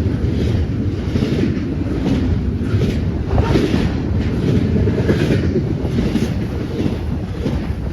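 Train rolling past close by: a steady low rumble with irregular wheel clatter, and wind buffeting the microphone.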